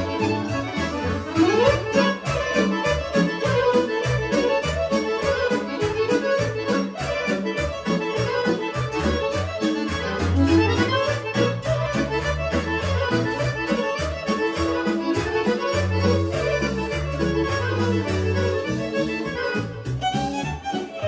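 Serbian kolo dance music from a folk band: a fast accordion melody over bass notes and a quick, even beat.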